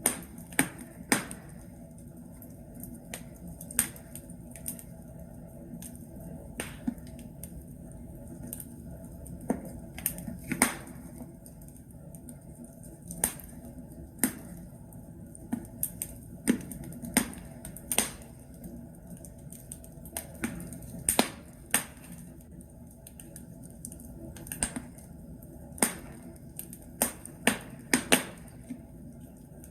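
Logs burning in a fireplace, crackling: irregular sharp pops and snaps, sometimes in quick little clusters, over a low steady rustle of the fire.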